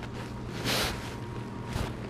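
Crunching of crispy fried flautas being bitten and chewed close to the microphone: two short crunches, the first longer, the second about a second later.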